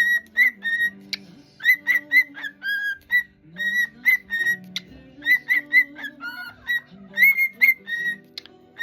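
Cockatiel whistling loudly, a quick run of short, clear notes, most of them on about the same pitch with a few lower ones, repeated over and over.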